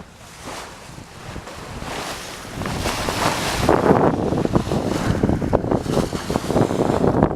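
Wind buffeting the microphone over the rush of water along a sailing schooner's hull. It starts quieter and grows louder and gustier about two and a half seconds in.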